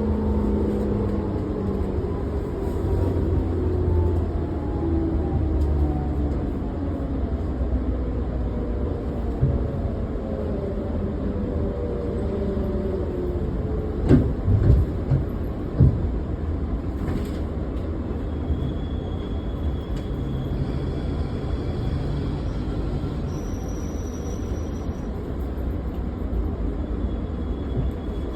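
Onboard running sound of a JR 113 series electric train's motor car. The traction motor and gear whine falls steadily in pitch as the train slows, over a constant rumble. About halfway through come a few sharp knocks, then a steadier low rumble.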